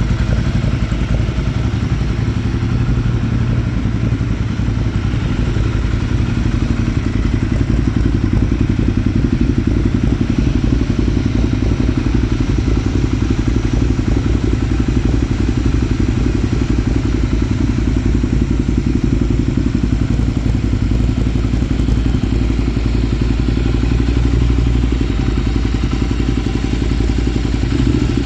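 Ducati Monster 1200 S's L-twin engine idling steadily as it warms up after a cold start.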